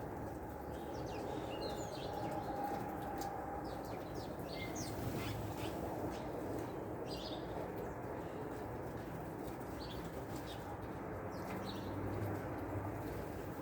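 Small songbirds giving short, high chirps scattered through the whole stretch, over a steady low background rumble.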